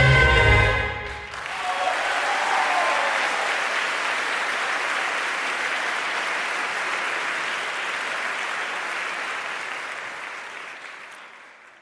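A song with a bass-heavy backing track ends about a second in, followed by audience applause that slowly dies away near the end.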